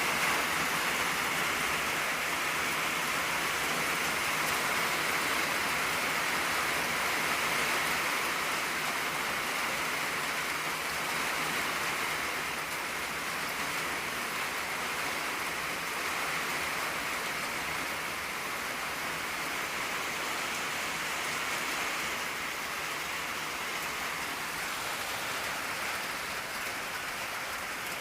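Steady rain drumming on an old tin roof, an even patter that eases slightly about halfway through.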